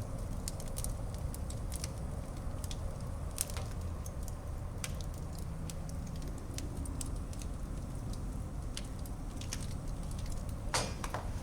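Wood fire burning in a fireplace: a steady low noise from the flames with irregular sharp crackles and pops, and a louder cluster of pops near the end.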